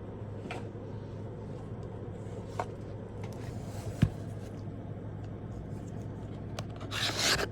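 Handling of a subscription box and its contents: a few light clicks, a sharp knock about four seconds in, and a short rustle of packaging near the end, over a steady low hum.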